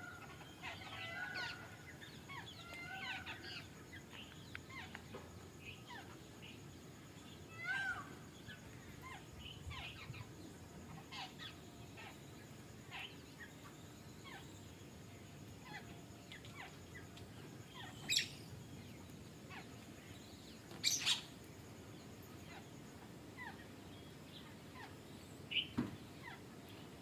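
Birds chirping: many short calls and quick pitch slides, with a few louder, sharper calls past the middle.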